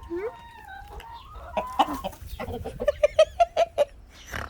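Chickens clucking: a drawn-out call in the first second, then a quick run of about seven clucks in a second, about three seconds in. The hens sound wary of a kitten among them.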